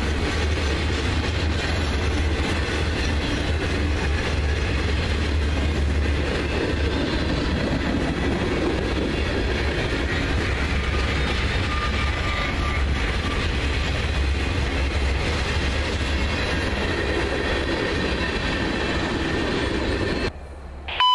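Freight cars of a CSX manifest train rolling past at track side: a steady rumble of steel wheels on the rails with clickety-clack, which stops abruptly near the end.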